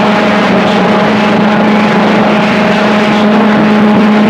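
CB radio receiver putting out loud, steady static and hash with a constant low humming tone, as a distant skip transmission breaks up under interference and comes through rough and muffled.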